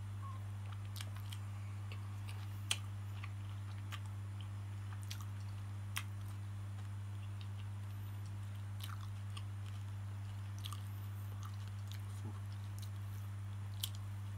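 Close-up chewing and mouth sounds of someone eating a roti john, with about a dozen sharp, irregular clicks and crackles, the loudest about three and six seconds in. A steady low electrical hum runs under it.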